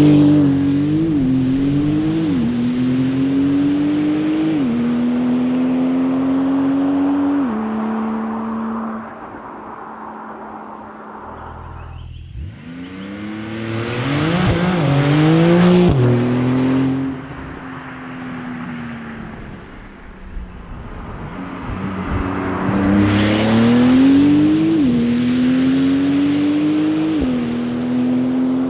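The 2021 Porsche 911 Turbo S's 3.8-litre twin-turbo flat-six under hard acceleration three times, with a lull and easing off between. In the first and last runs the pitch climbs and drops sharply at each quick upshift of the eight-speed dual-clutch gearbox.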